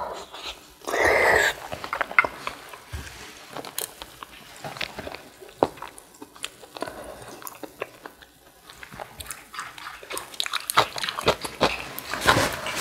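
Close-miked eating sounds: chewing and crunching, with many sharp mouth clicks that come thickest near the end and a louder noisy burst about a second in.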